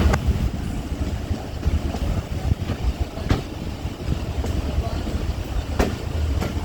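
Passenger train running along the track: a steady low rumble, with a few sharp clicks of wheels over rail joints now and then.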